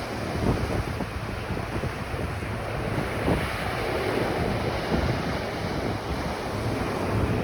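Ocean surf washing on a beach, a steady rushing noise, with wind buffeting the microphone and adding a fluttering low rumble.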